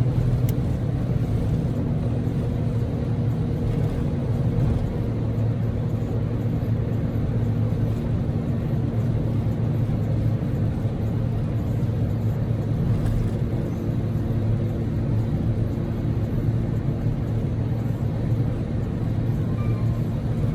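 Steady in-cabin driving noise of a Daihatsu Move L150S kei car: its 660 cc three-cylinder EF-VE engine humming at a constant speed over an even low road rumble.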